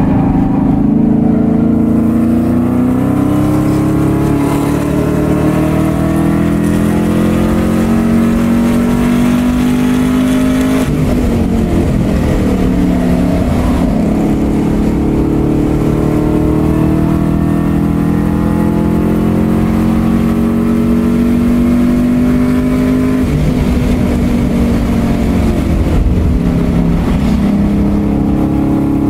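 Car engine heard from inside the cabin while lapping a race track at speed, its pitch climbing steadily under acceleration. The pitch falls sharply twice, about eleven seconds in and again around twenty-three seconds, then climbs again.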